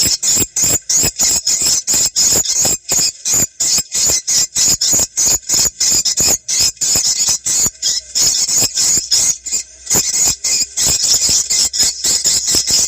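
Recorded swiftlet calls used as a lure sound: a fast, unbroken run of short high-pitched chirps, about five a second.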